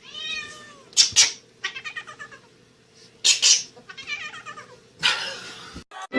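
A cat meowing and yowling: a string of drawn-out, rising-and-falling calls, broken by a few short, harsh bursts.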